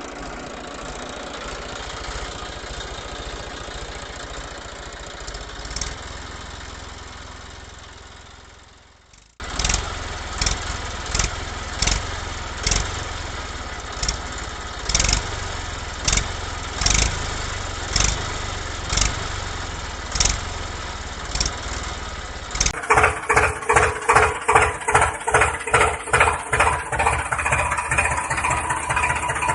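Tractor-style engine running. After a cut it settles into a slow regular chugging beat, which turns louder and faster, about two to three beats a second, in the last several seconds.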